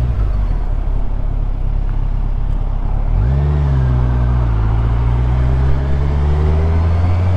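Kawasaki Ninja 1000SX inline-four motorcycle engine heard from a helmet camera on the move, with wind and road noise. About three seconds in the revs rise sharply as the bike accelerates, then hold a steady note that slowly climbs in pitch.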